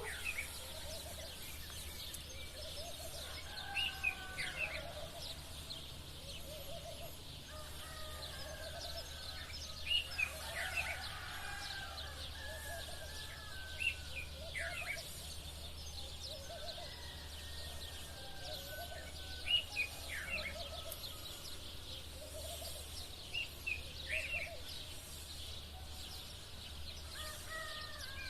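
Many sparrows chirping continuously, with sharp louder calls standing out every few seconds and roosters crowing at intervals in the distance. A steady low hum runs underneath.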